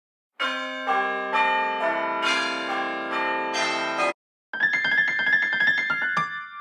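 Two iPhone ringtone previews in a row. The first is a run of sustained piano-like chords stepping through several changes and cut off after about four seconds. Half a second later the second starts, a quicker pattern of repeated bright notes that fades near the end.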